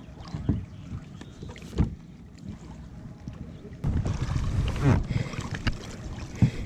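Kayak being paddled through choppy water, with wind buffeting the microphone. A few dull thumps, and a louder stretch of splashing about four seconds in.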